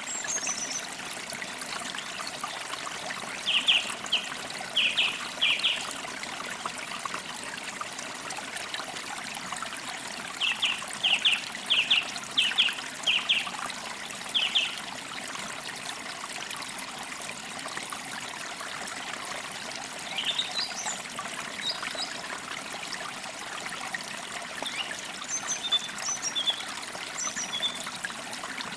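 A stream trickles steadily while forest birds call over it. One bird gives two runs of short, sharp repeated notes, and fainter high chirps come later.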